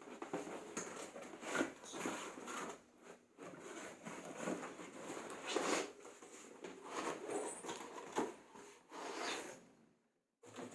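Hands opening and handling packaging around a jigsaw box: irregular rustling, scraping and crinkling. The sound drops out briefly near the end.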